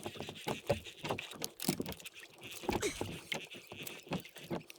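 Irregular small clicks and knocks with light water patter on a fishing kayak.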